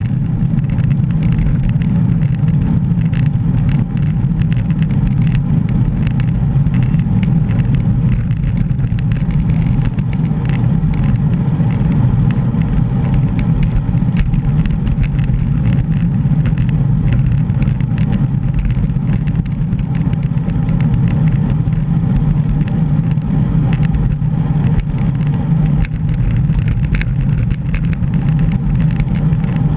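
Steady low rumble of wind and road noise from riding a bicycle, picked up by a GoPro action camera.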